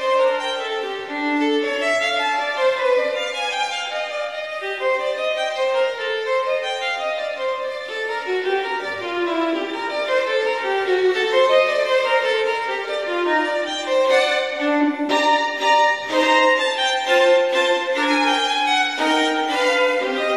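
Background music: a violin playing a moving melody, with notes changing every fraction of a second.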